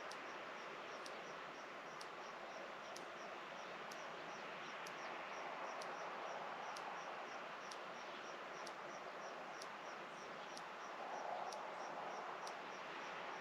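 Outdoor rural ambience: a steady hiss of background noise with a small high chirp repeating two or three times a second, and a faint sharp tick about once a second.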